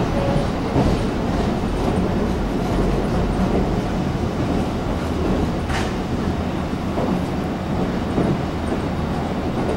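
Taiwan Railways EMU700 electric commuter train running at speed, heard from inside a passenger car: a steady rumble of wheels on rail and running gear, with a sharp click about six seconds in.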